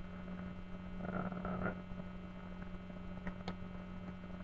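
Steady low electrical mains hum, with a faint rustle about a second in and two faint clicks a little after three seconds.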